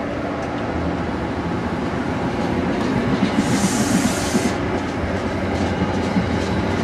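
Passenger train running through a station with a steady rumble and wheel clatter. About three and a half seconds in, a sharp hiss lasts about a second.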